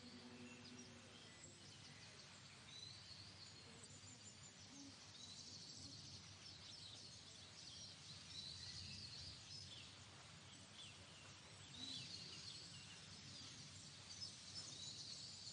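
Faint outdoor ambience of small birds chirping and calling in short bursts every few seconds, over a low, steady background rumble.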